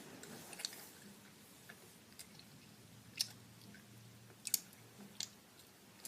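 Chewing Skittles Sour candy, with scattered sharp crunching clicks.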